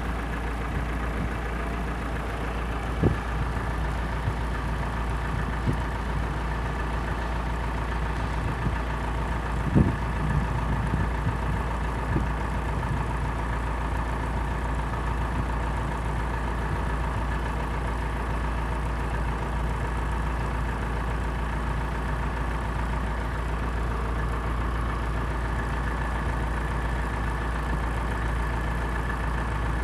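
Steady engine-like mechanical hum over a low rumble, with a few short knocks about 3 and 10 seconds in.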